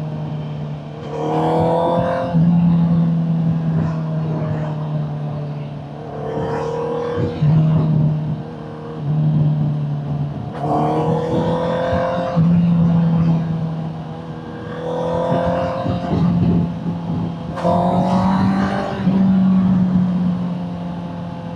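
Honda CBR650R inline-four engine through an aftermarket Vandemon exhaust while riding, rising in revs about five times and easing off between, as in stop-and-go traffic.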